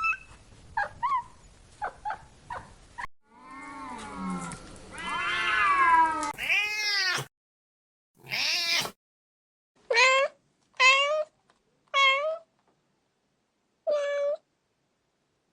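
Domestic cats meowing in a run of short spliced clips: a few brief chirpy meows, then a long drawn-out yowl, then four short meows about a second apart near the end.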